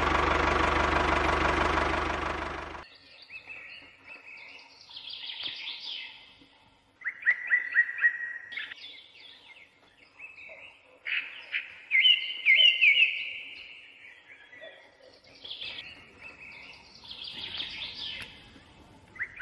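Background music that cuts off about three seconds in, followed by songbirds calling: scattered chirps and several short, fast trills.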